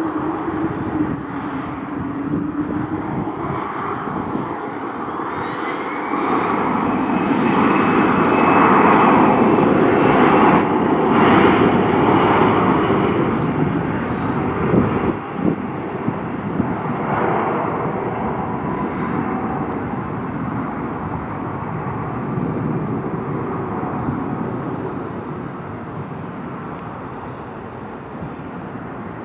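Jet airliner's engines running as it passes, a roar that builds to its loudest about ten seconds in and then slowly fades, with a high whine rising in pitch about five seconds in.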